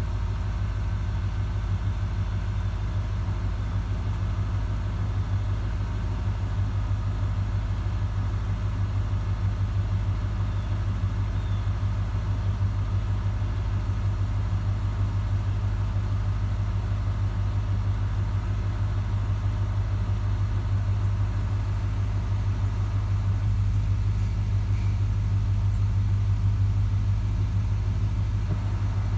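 Car engine idling steadily while it warms up after a repair, its temperature gauge climbing.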